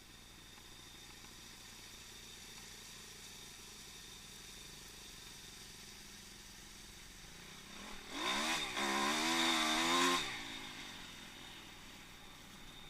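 Small pit bike engine revving hard for about two seconds, its pitch rising and wavering, then dying away, over a faint steady background noise.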